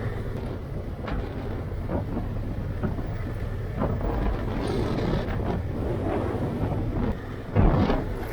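Motorcycle engine running steadily while riding, with wind buffeting the helmet microphone. A short louder sound about seven and a half seconds in.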